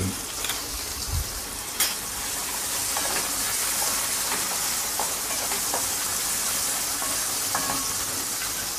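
Chopped onions, curry leaves and green chillies sizzling steadily in hot oil in an aluminium kadai. A spatula stirs them, with a sharp knock against the pan about two seconds in and a few light scrapes after.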